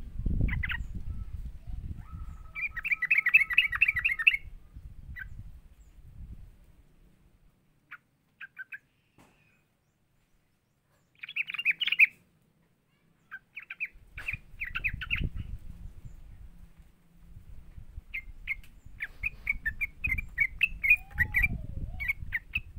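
Yellow-vented bulbul chirping in quick, chattering runs of notes: a long run about three seconds in, a short burst near the middle, and more runs towards the end. A low rumble lies under the first and last parts.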